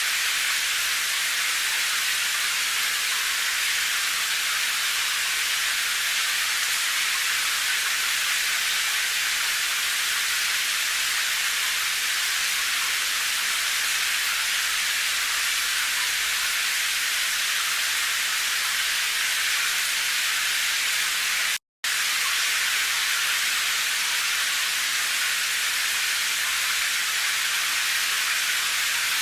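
Steady, even hiss of rain that cuts out completely for a split second about two-thirds of the way through.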